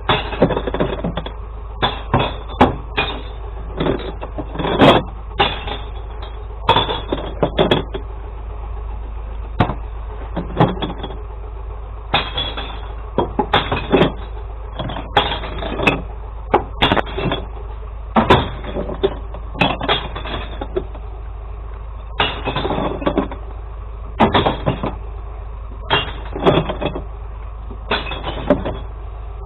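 Glass recycling being loaded into a kerbside glass-collection truck: repeated irregular clattering bursts and knocks, some a half-second long, over the truck's steady low engine hum.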